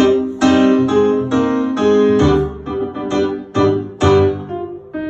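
Live band's instrumental introduction to a 1930s-style song, led by piano chords struck about twice a second, each one ringing and fading before the next.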